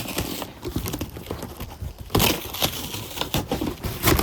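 Packaging being handled and torn open as a parcel is unboxed: irregular crinkling and rustling with many sharp crackles and clicks.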